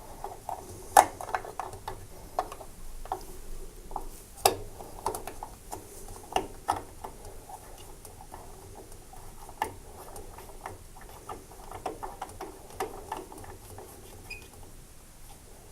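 Irregular small clicks and scratching as a replacement lamp is screwed into its housing in a Miele tumble dryer, with a few sharper clicks among the light scraping.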